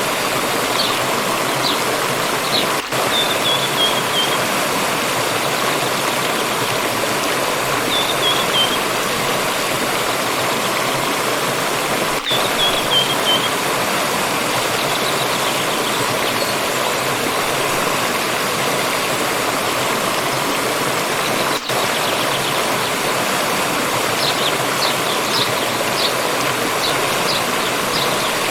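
Steady rushing of a forest water stream. Over it a small bird gives short falling trills, three times in the first half, and quick high chirps near the start and again near the end.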